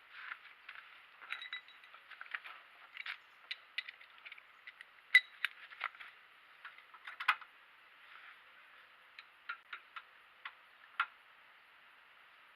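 Metal tools and parts clinking and tapping in irregular sharp clicks, loudest about five seconds in and again just past seven seconds, with a few single clicks near the end.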